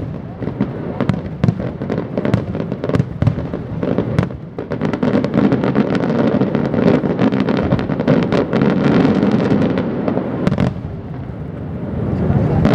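Aerial fireworks going off: a string of separate sharp bangs, then from about five seconds in a dense run of rapid crackling bangs, which ends in a single sharp bang before it eases off.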